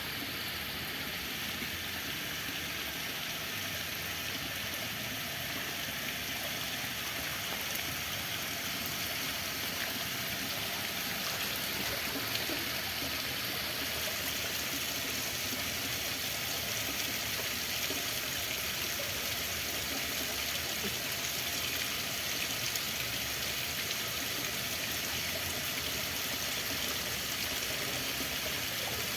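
Running water, a steady even hiss with no pauses or changes.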